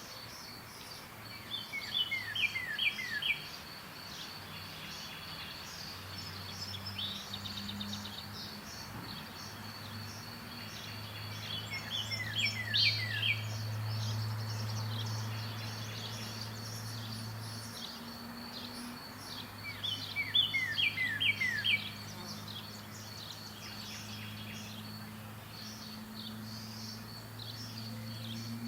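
A songbird repeating a short phrase of four or five quick falling whistled notes, about every eight to nine seconds. Under it runs a steady high-pitched drone and a low hum that swells in the middle.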